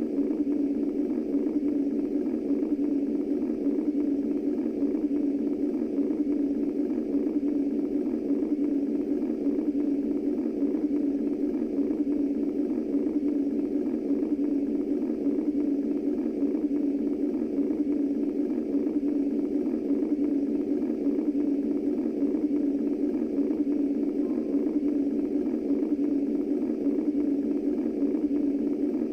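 Steady, low, muffled womb-style white noise, with its energy in a band low in pitch, unchanging throughout.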